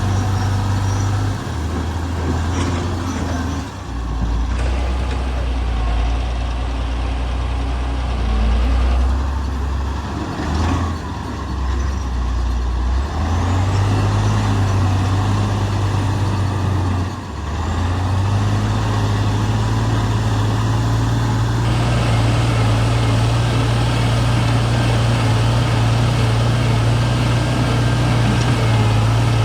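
Heavy diesel engine of earthmoving machinery running, its engine speed dropping and rising several times as it is worked, then holding steady and higher for the last third.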